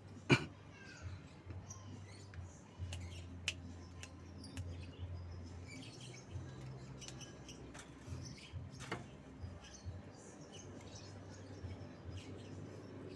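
Javan myna (jalak kebo) giving scattered, faint chirps, with a few sharp clicks, the loudest just after the start.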